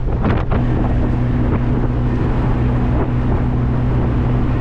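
Steady engine drone with road and wind rush inside a moving classic car: a constant low hum under a loud, even rushing noise, loud enough that the occupants can't hear each other properly.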